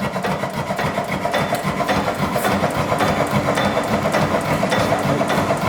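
Dempster 8 HP hit-and-miss engine running, a steady rapid mechanical clatter with no break.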